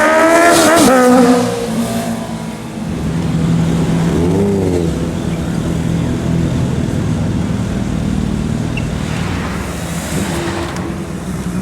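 Sport motorcycle engine revved hard at the start, its pitch climbing, then dropping back to a steady low running with one short throttle blip about four seconds in.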